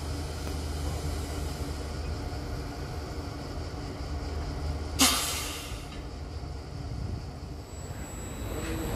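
Electric multiple unit passenger train moving slowly, with a steady low rumble. About five seconds in comes a sudden hiss of compressed air, the loudest sound here, which fades away over about a second.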